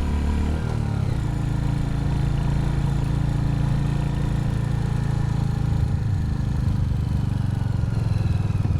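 Royal Enfield Hunter 350's single-cylinder engine running steadily under way, with small shifts in engine speed.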